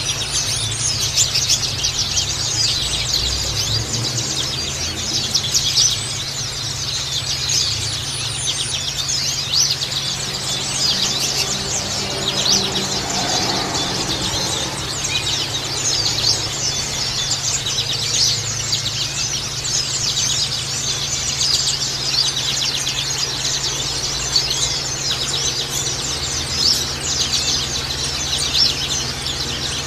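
A flock of white-eyes chattering: many high, thin chirps overlapping without a break. A steady low hum runs underneath.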